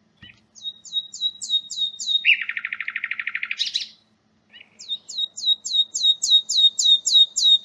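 Common nightingale singing two song phrases. The first is a rapid series of repeated high notes, each falling in pitch, then a fast, lower buzzing trill that ends in a sharp rising note. After a half-second pause, about four and a half seconds in, the second phrase starts with a short note and another run of repeated falling notes.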